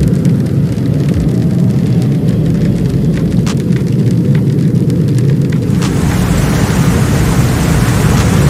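Storm wind rumbling hard on the microphone, with scattered sharp hail strikes. About six seconds in, a heavy rushing hiss of rain and hail joins.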